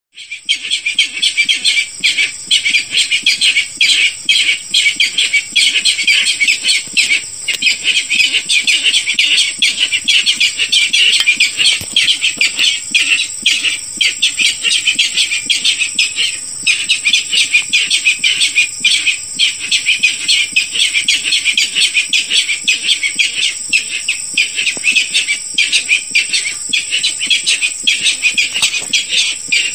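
Barred rail calling: a continuous, rapid series of harsh notes that goes on with only brief pauses, played as a hunting lure call. A thin, steady high tone runs behind it.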